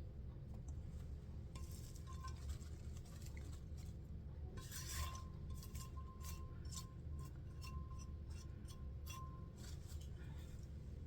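Faint kitchen handling sounds: a run of light clicks and scrapes, like utensils and containers being moved, starting about four seconds in, over a steady low hum.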